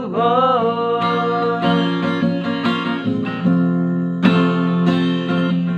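A voice singing a Batak-language song over acoustic guitar, sliding into a note at the start and then holding long sustained notes.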